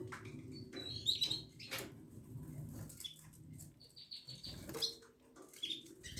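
Canary giving short, high chirps every second or two, with wing fluttering and light scratching and clicking movements between them.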